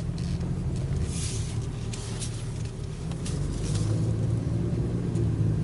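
A steady low rumble, with scattered light clicks over it. It grows slightly stronger about four seconds in.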